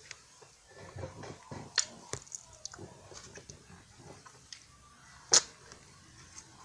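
Close-miked chewing of a crisp, flaky French Pie puff-pastry biscuit, with scattered small crunches and crackles. A single sharp click about five seconds in is the loudest sound.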